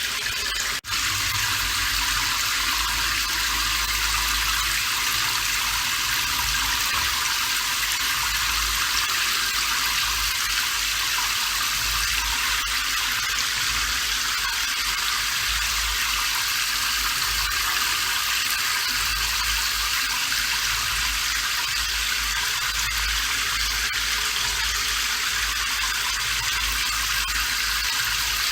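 Steady rain falling, a constant even hiss with a brief dropout about a second in.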